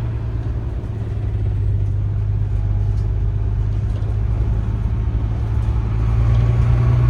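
Tour bus engine running with a steady low drone and road noise while the bus drives along, growing a little louder near the end.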